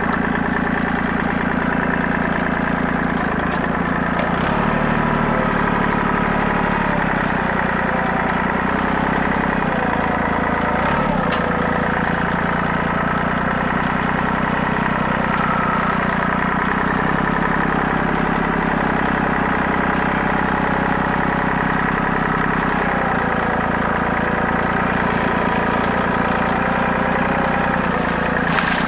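Compact tractor engine running at a steady speed, heard from the driver's seat.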